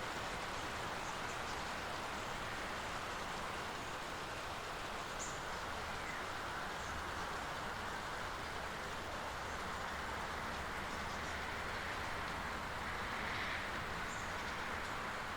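Steady rain falling, an even hiss, with a few faint high chirps now and then.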